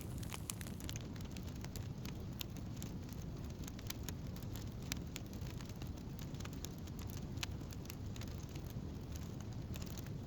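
Wood campfire burning, with a steady low rumble of the flames and scattered sharp crackles and pops from the burning wood.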